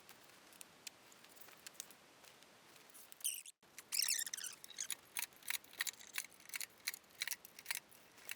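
Faint, scattered light clicks and short high-pitched squeaks, with a brief dropout a little over three seconds in.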